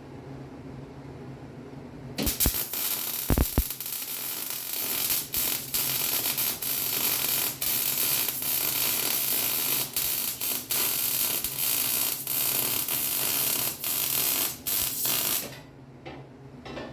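A welding arc crackling and hissing for about thirteen seconds, broken by many brief gaps, after a few sharp knocks. A steady low hum runs underneath.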